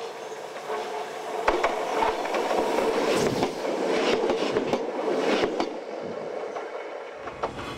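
Stainless-steel electric train passing close by, its wheels clacking over the rail joints. It builds up, is loudest in the middle as the cars go past, and fades away near the end.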